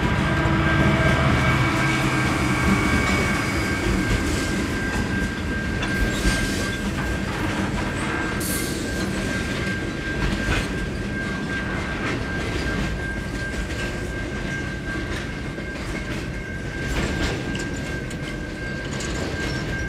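Freight train passing: the lead diesel locomotives' engines hum low for the first couple of seconds, then the wagons rumble by with scattered clicks from the wheels over the rail, over a steady high-pitched wheel squeal.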